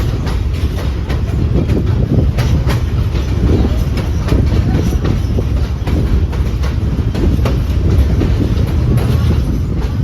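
Passenger train running on the rails: a steady low rumble with irregular clacks of the wheels over the track.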